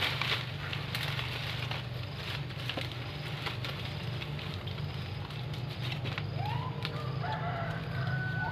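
A rooster crowing in the last two seconds, with rising calls and a held high note, over a steady low hum and scattered crackling.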